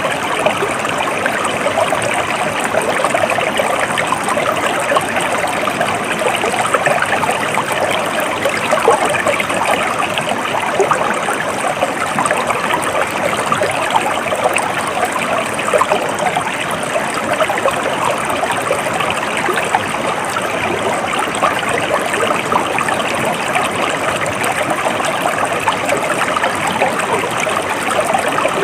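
Water of a stream flowing steadily and without pause.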